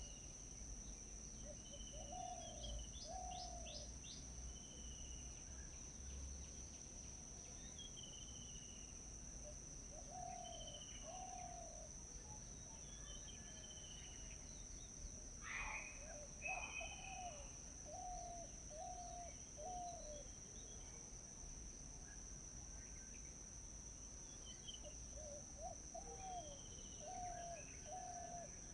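Forest ambience: a steady, high-pitched insect drone under birds calling. One bird gives a low call in quick runs of two to four notes, repeated every few seconds, while others add short, higher chirps; one louder call comes about halfway through.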